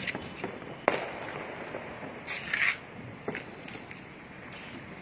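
Small fireworks going off: a few sharp cracks, the loudest about a second in and another a little after three seconds, with a short hissing burst between them over a faint crackle.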